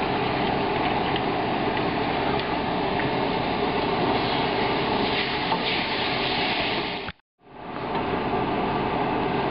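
Chopped vegetables sizzling in a pot of hot flour-and-butter roux as they are stirred in with a spoon, a steady frying hiss that breaks off for a moment about seven seconds in.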